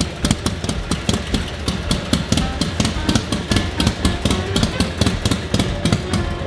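1942 Harley-Davidson WLA's 45-cubic-inch flathead V-twin idling steadily, its firing pulses coming about six times a second.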